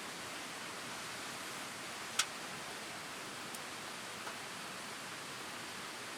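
Wood campfire burning with a steady hiss; one sharp crackle about two seconds in, then two fainter ticks.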